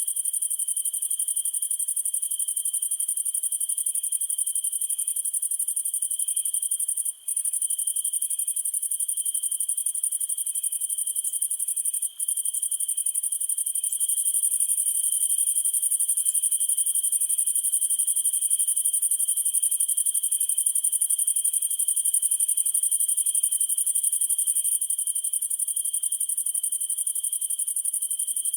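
Night chorus of crickets: a dense, steady high-pitched trilling with a lower continuous trill beneath and a slower chirp repeating about two to three times a second. The whole chorus cuts out for a split second twice.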